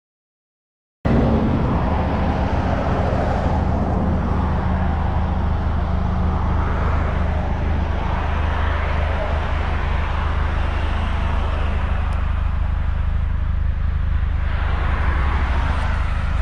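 Opel Astra OPC's 2.0-litre turbocharged four-cylinder engine idling steadily, heard from outside the car; it comes in suddenly about a second in.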